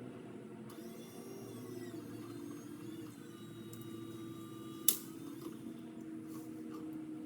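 A small motor running with a steady whine, its pitch shifting for a second or two and then holding level, with one sharp click about five seconds in.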